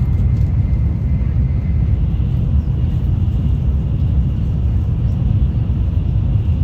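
Tokaido Shinkansen Nozomi train running at speed, heard from inside a passenger car as a steady low rumble, with a faint high whine from about two seconds in.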